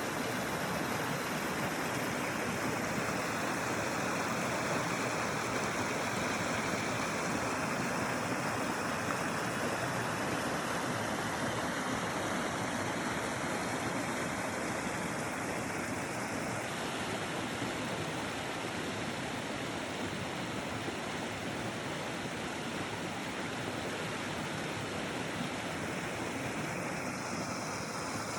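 Mountain river's water rushing steadily.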